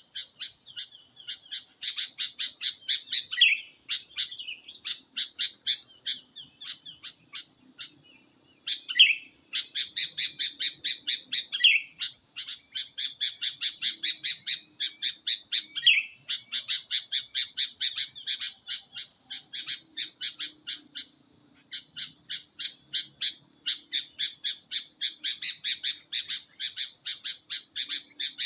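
Birds calling: a fast, even run of short chirps, about four a second, over a steady high tone, with a few short falling calls breaking in now and then.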